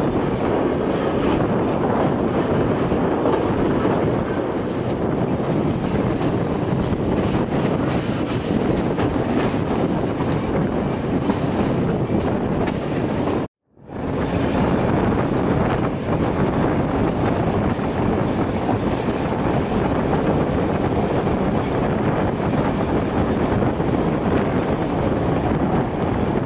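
Passenger train carriage running along the track, heard from an open carriage window: steady rolling noise of wheels on rails. The sound cuts out for a moment about halfway through, then resumes.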